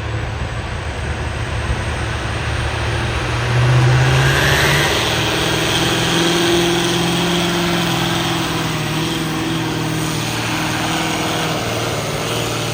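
Engine of a pulling vehicle at a truck and tractor pull, running hard; about four seconds in it revs up and then holds a steady high note.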